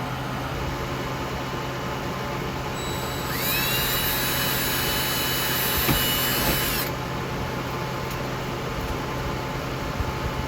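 A power drill runs for about three and a half seconds, starting a few seconds in: its motor spins up with a quick rising whine, holds steady, then stops.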